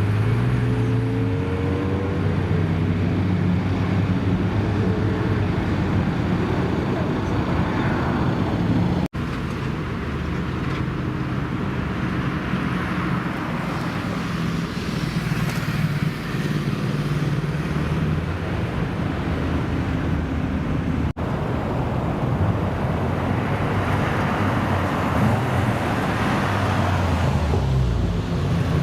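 Car engines and exhausts: one engine revs up early, and others idle and pull away. Two swells of exhaust and tyre noise rise and fade as cars pass, with two abrupt cuts between shots.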